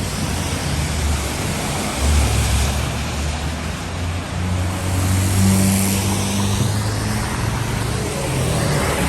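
Street traffic passing on a wet road: vehicle engines running low and steady under a continuous hiss of tyres, swelling as vehicles go by in the middle of the stretch.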